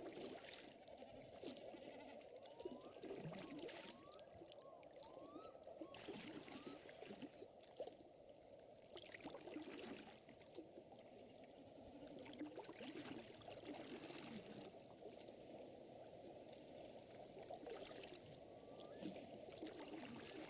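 Faint lakeside water ambience: small waves lapping and trickling at the shore, with short rising chirps from small animals scattered throughout.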